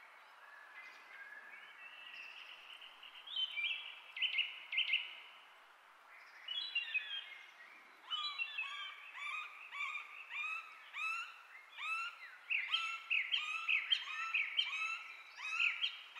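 Small birds chirping over a faint steady hiss. The chirps are sparse with a few short whistled notes at first, then a busy run of quick repeated chirps from about eight seconds in.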